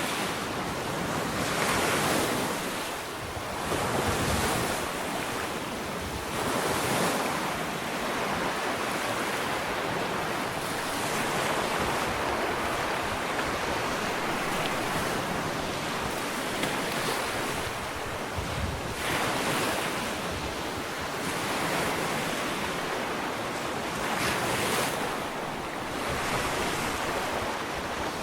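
Ocean waves washing onto a sandy beach, a continuous surf hiss that swells and breaks every few seconds, with wind on the microphone.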